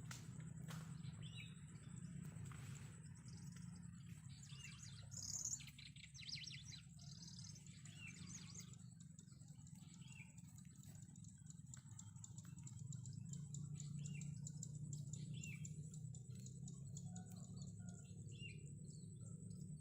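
Wild birds chirping, with many short, quick calls overlapping and a busier stretch around a quarter of the way in, over a thin steady high tone and a low hum.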